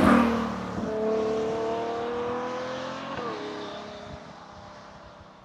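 Ferrari GTC4Lusso's 6.3-litre naturally aspirated V12 passing close by at speed, then pulling away. Its note climbs for about two seconds, dips about three seconds in, and fades into the distance.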